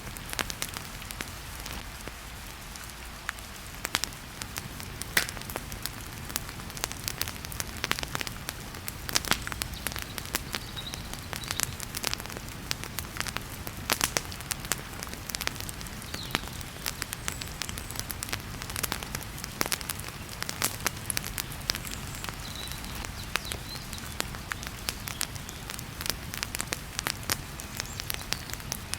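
Wood fire crackling in a fireplace, with frequent sharp irregular pops over a steady hiss of heavy rain.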